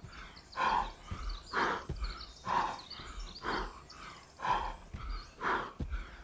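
A man breathing hard and rhythmically, about one forceful breath a second, from the exertion of high-to-low plank reps.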